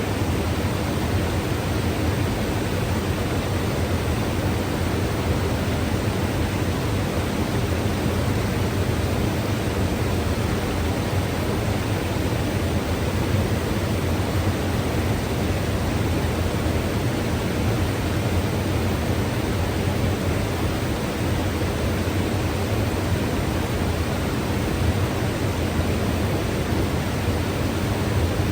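Mountain river rushing steadily over rocks, a constant deep roar of water with no change.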